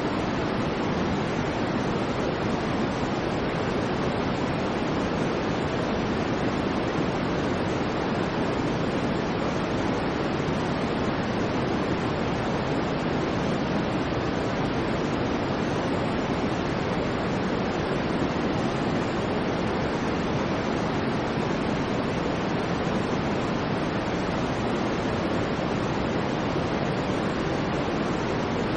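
Steady, unchanging white noise played as a sleep sound: an even rushing hiss, fuller in the low middle than in the treble, with no swells or breaks.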